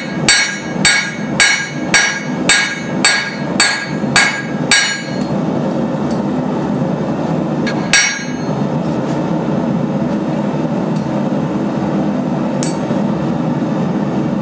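Blacksmith's hammer striking a sword blade on the anvil in an even rhythm, just under two blows a second, each blow ringing. The blows stop about a third of the way in, leaving a steady rushing noise, with one more single strike a few seconds later.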